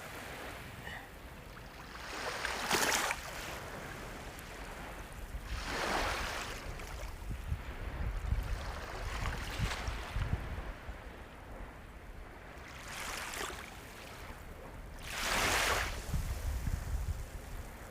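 Ocean waves breaking on a shore, four washes of surf a few seconds apart over a steady low rumble of the sea.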